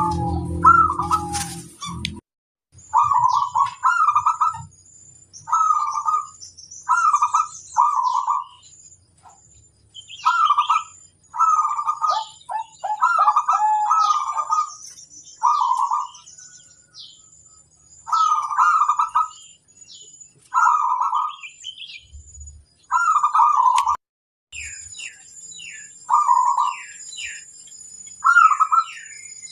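Zebra dove (perkutut) cooing its song phrase over and over, one to two seconds apart, while higher chirps of other small birds answer in between. A steady thin high whine runs underneath, and a low hum stops about two seconds in.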